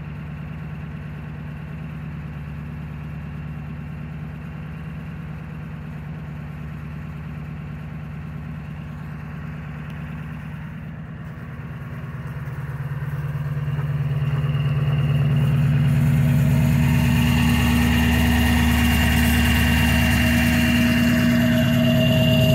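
Ford E-350's 7.3 L Power Stroke V8 turbodiesel idling steadily after a cold start at −8 °C; past the halfway mark the sound grows louder and fuller.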